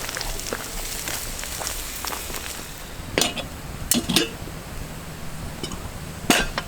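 A few sharp knocks over a steady background hiss: one about three seconds in, two close together about a second later, and one near the end.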